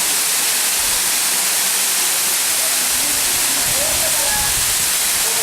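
Waterfall: a steady, loud rush of falling water, an even hiss with no break.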